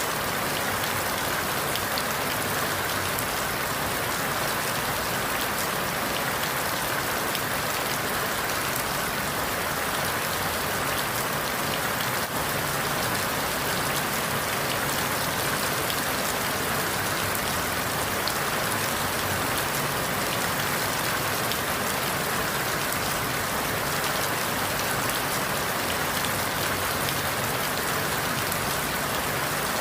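Steady rain falling on forest leaves, a constant hiss with many fine drop patters and no change in strength.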